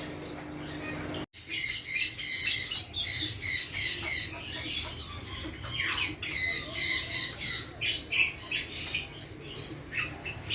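Many caged songbirds chirping and squawking together, with short repeated high calls overlapping one another; the sound drops out briefly about a second in, then resumes.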